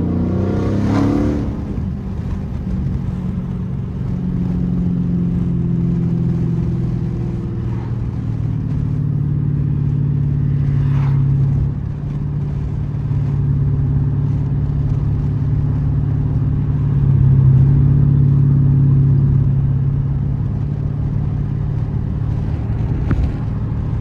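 Straight-piped 6.4-litre Hemi V8 of a 2012 Dodge Charger SRT8 running under way, its exhaust note rising and falling with the throttle. There is a short loud burst about a second in, a dip in loudness near the middle, and a climb again later.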